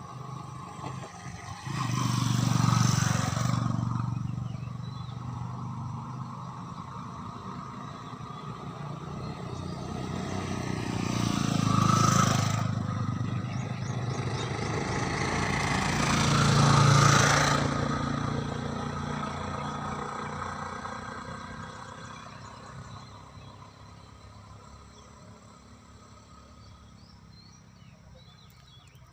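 Motor vehicles passing by three times, each swelling up and fading over a few seconds, the loudest about two, twelve and seventeen seconds in, then dying away near the end.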